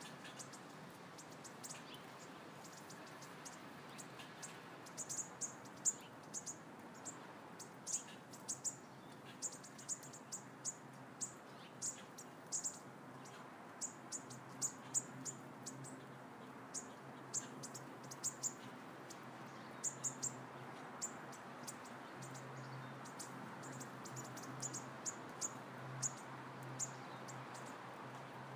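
Many short, high-pitched chirps repeating irregularly, like a small bird chirping, over a faint steady low hum.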